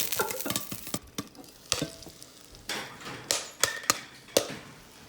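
A hot paper microwave-popcorn bag being opened and handled: crinkling at first, then scattered sharp crackles and clicks.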